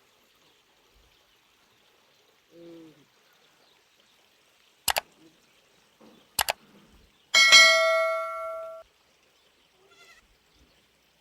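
A short animal call, then two sharp knocks, then a loud struck-metal ring that dies away over about a second and a half and stops abruptly.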